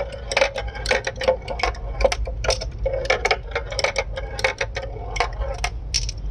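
Marbles rolling down a homemade marble run, with a steady low rumble of rolling and many quick, irregular clicks and clacks as they strike the track and each other.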